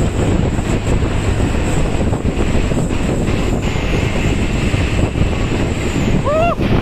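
Heavy truck running on the road, a steady dense engine and road noise. A short pitched sound rises and falls near the end.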